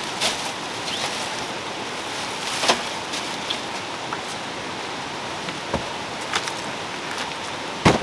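Steady rushing of a mountain stream, with a few sharp knocks and clatters from camping gear being handled, the loudest near the end.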